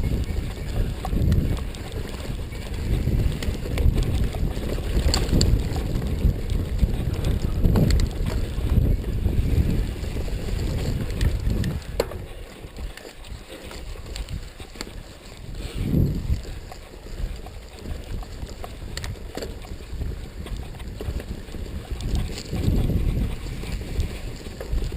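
Mountain bike ridden over a dirt trail: wind rumbling on the microphone, with scattered rattles and knocks from the bike. It eases off for a few seconds about halfway through, then picks up again.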